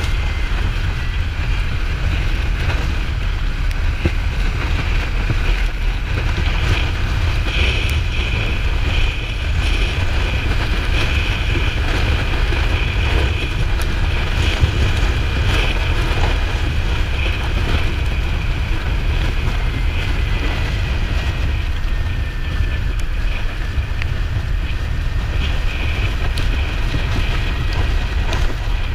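Steady wind buffeting on the microphone at road speed on a Kawasaki Ninja 400 motorcycle, with the bike's parallel-twin engine running underneath.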